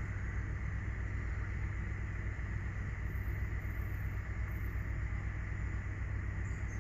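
Emirates Airbus A380-842's four Rolls-Royce Trent 900 turbofans on landing approach: a steady low rumble with a hiss over it.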